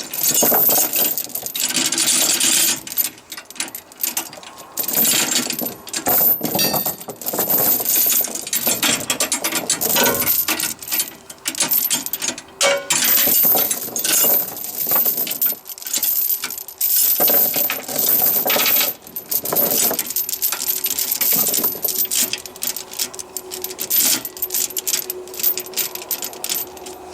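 Steel tie-down chain links clinking and rattling in irregular bursts as the excess chain is handled and folded over the load binders.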